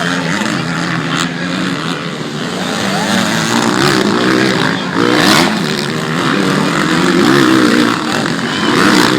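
Motocross dirt bikes racing, several engines revving up and down and overlapping, with the pitch repeatedly climbing and dropping as riders open and shut the throttle.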